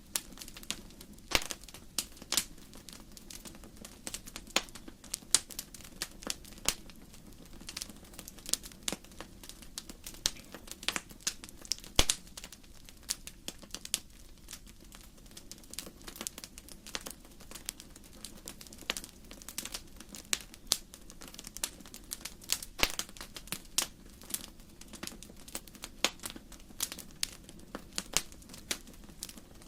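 Firewood burning in a fireplace, crackling: irregular sharp snaps and pops, sometimes several a second, over a steady low background sound.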